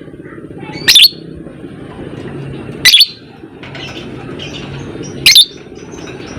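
Lovebird calling: three sharp, shrill shrieks about two seconds apart, over a steady softer background of chatter.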